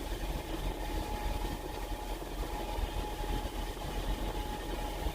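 Semi truck's diesel engine idling steadily, a low rumble heard inside the cab, with a thin steady whine above it.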